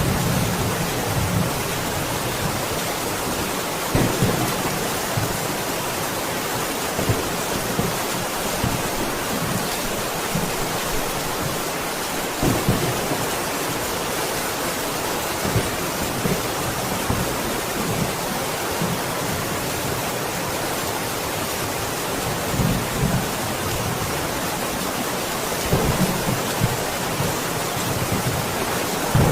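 Steady heavy rain, an even hiss, with brief low rumbles and thumps coming up every few seconds.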